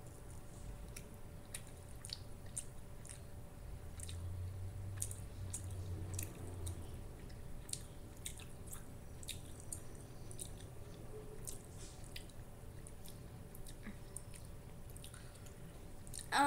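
A person chewing a soft plant-based deli slice (Tofurky) with the mouth mostly closed: faint, irregular wet mouth clicks and smacks.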